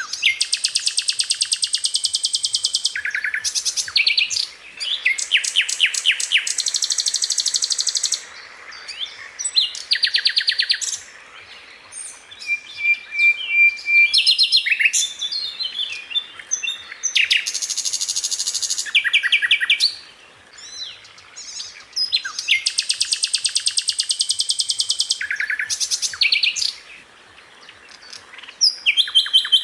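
Sikatan londo, a small flycatcher, singing in loud, fast rattling trills between short high chirps. The phrases last two to three seconds each and come again after brief pauses.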